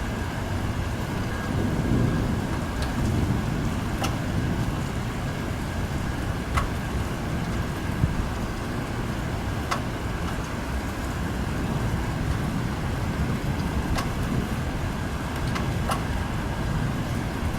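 Thunderstorm ambience: a steady low rumbling noise with rain and scattered sharp ticks, swelling louder about two seconds in and again in the second half.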